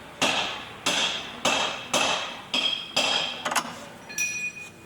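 Hammer striking metal in a series of about eight blows, roughly two a second. Each blow leaves a short metallic ring.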